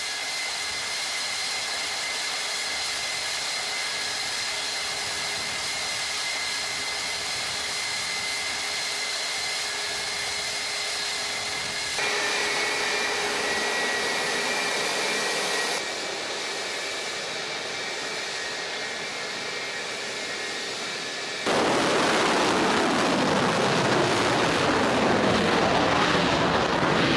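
Su-57 fighter jet engines running with a steady whining hiss, cut together from several shots. About 22 seconds in, a louder jet passes, its sound sweeping downward in pitch.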